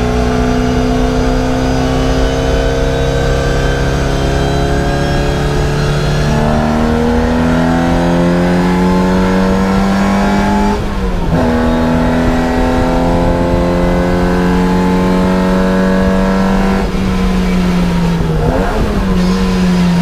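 Racing car's engine heard from inside the cockpit, pulling hard with the pitch slowly rising, and a gear change about 11 seconds in. Near the end the driver lifts off for a corner and the pitch falls, with a quick rev blip on the downshift.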